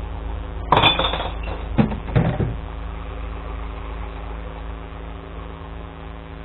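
Glass recycling truck's engine idling with a steady hum, with a few clunks and rattles in the first two and a half seconds.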